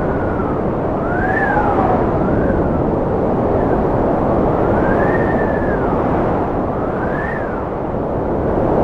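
Strong cold wind blowing with a steady low rush and a whistling howl that swoops up and down in pitch several times.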